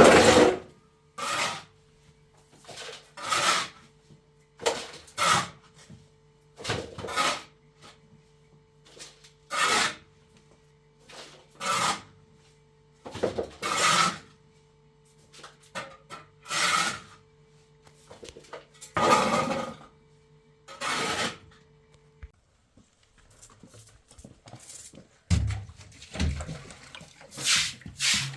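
Hand tool rasping on wood in slow repeated strokes, about one every one and a half seconds. A faint steady hum underneath stops a little before the end.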